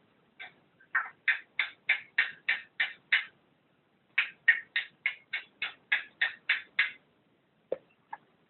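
Agitated pet bird calling in quick, evenly spaced short calls, about three a second. The calls come in two runs of a few seconds with a pause between, then two single calls near the end.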